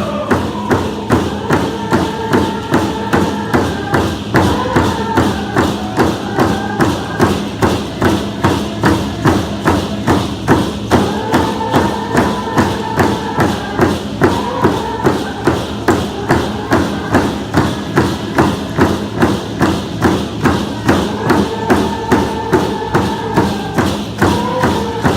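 Group of voices singing a Coast Salish canoe-family song over a steady hand-drum beat of about two strokes a second.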